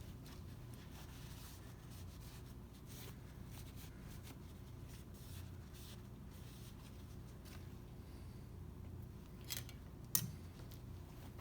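Faint handling of a piston ring being worked onto a piston: light rubbing and scraping of metal, with two sharp clicks about half a second apart near the end, the second the loudest.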